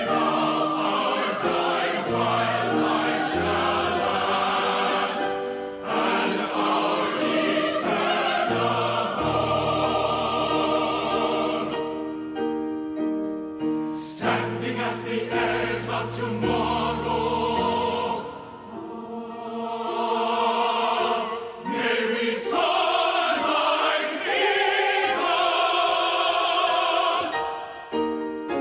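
A choir singing a sacred piece with instrumental accompaniment, in long held notes and full chords.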